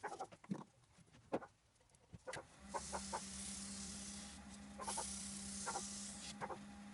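Short animal calls sound again and again. From about two and a half seconds in, a wood lathe runs with a steady hum and a hiss of polishing on the spinning piece.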